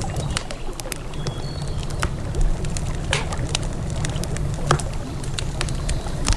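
Wood campfire crackling, with irregular sharp pops and snaps, over the steady low rush of a flowing river.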